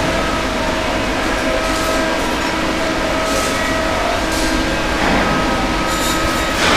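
Ship's engine-room machinery running, a loud, steady din with a constant hum.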